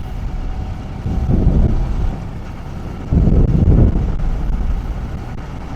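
Motorcycle riding at about 50 km/h, heard from an action camera mounted on the bike's mirror: wind buffeting the microphone over engine and road rumble. Two louder gusts come through, the second starting abruptly about three seconds in.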